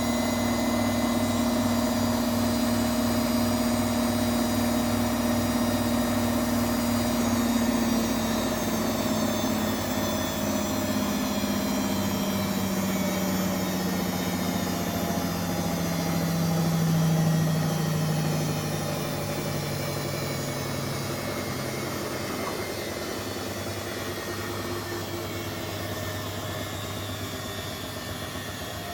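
Beko washing machine's drum coasting down at the end of its spin: the motor's whine falls steadily in pitch and fades out about twenty seconds in, leaving a low steady hum.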